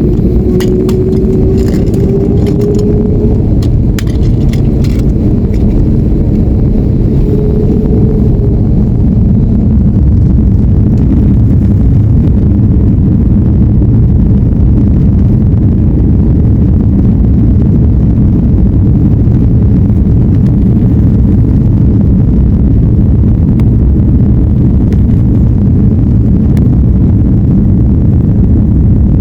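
Airliner on its takeoff run: a loud, steady low rumble of jet engines at takeoff power and wheels on the runway. A whine rises slowly during the first few seconds as the engines spool up.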